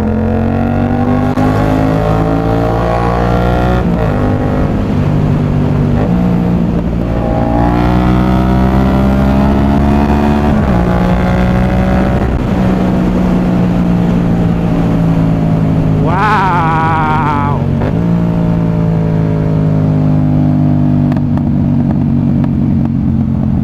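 Yamaha MT-07's CP2 parallel-twin engine, fitted with an aftermarket exhaust, pulling hard and shifting up several times. The pitch climbs and then drops at each shift. A short wavering high tone sounds about two-thirds of the way in.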